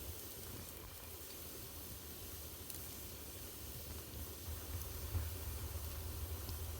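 Wood fire burning in a fireplace: a steady hiss over a low rumble, with a few faint crackles. The rumble grows a little louder about five seconds in.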